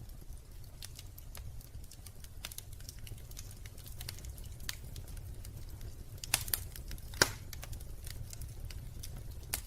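Wood fire crackling in a fireplace: scattered pops and snaps over a low steady rumble, with a few sharper snaps about two-thirds of the way in.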